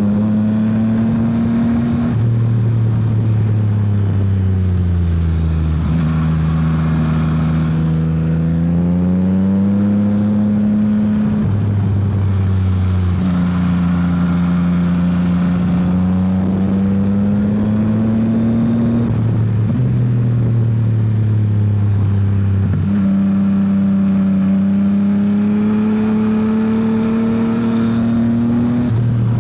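Yamaha XSR900's three-cylinder engine running while the motorcycle is ridden. Its note rises and falls as the rider opens and closes the throttle, with sudden steps in pitch several times as gears are changed.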